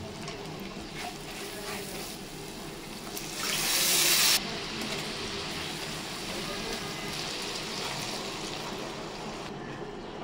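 Onion and spice masala sizzling in hot oil in a wok, stirred with a spatula. A much louder hissing sizzle about three seconds in cuts off abruptly a second later.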